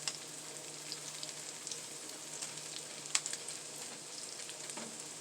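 Stuffed French toast frying in butter in a pan on low heat: a steady sizzle with scattered crackling pops, one sharper pop about three seconds in.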